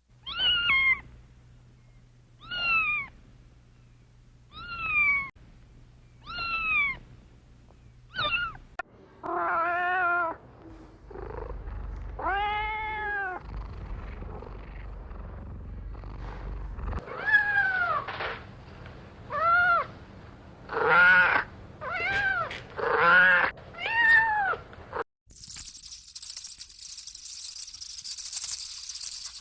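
Cats meowing again and again, each meow falling in pitch: high, thin meows at first, then fuller, lower ones. About 25 seconds in, the meowing cuts off abruptly and a high rustling, crinkling noise takes over.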